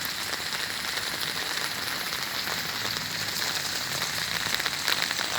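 Steady rain, the drops ticking densely on an umbrella held overhead.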